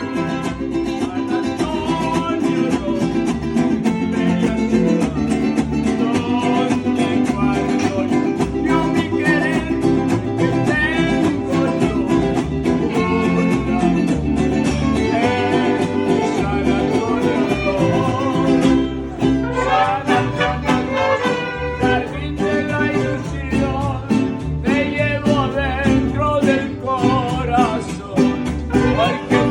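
Mariachi band playing live: strummed guitars and violins, with a voice singing along.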